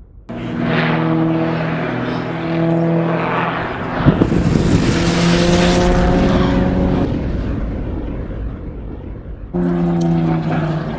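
Aircraft engine noise with a steady drone, cutting in abruptly and swelling louder from about four seconds in, with a sudden jump in the sound near the end.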